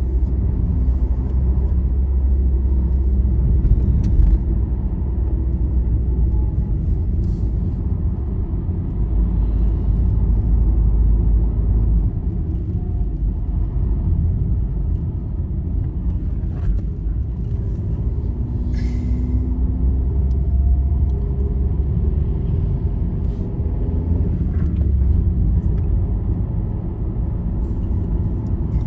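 Steady low rumble of a vehicle's engine and tyres cruising along a highway, with a few faint clicks and rattles.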